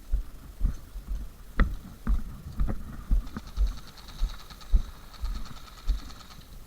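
Dull low thumps about twice a second, typical of a player moving with a body-worn camera, jarring the microphone. From about three seconds in a steady high, finely pulsing buzz joins them.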